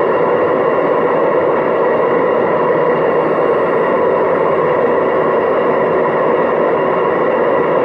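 Hoover DYNS 6105 DZ washing machine in its final spin, running steadily at its full 1000 rpm: a loud, even whirring noise with no change in speed. The machine's drum bearings are worn.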